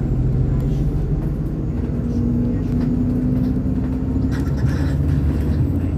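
MAZ-203 city bus's diesel engine running under way, heard from inside the passenger cabin as a steady drone, its pitch rising slightly in the middle.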